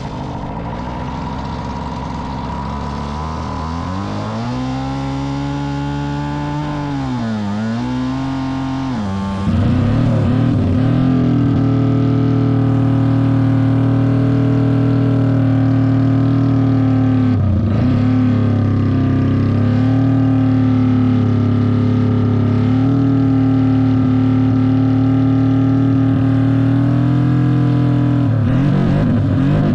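Classic Honda racing motorcycle engine running through open megaphone exhausts, held at a steady fast idle. The revs climb a few seconds in, then sag and pick up again twice, about a quarter of the way in and again past halfway. It gets louder about a third of the way in.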